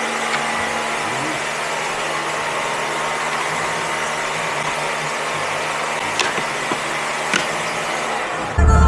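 Steady mechanical whirring noise with a couple of faint clicks; loud bass-heavy music cuts in at the very end.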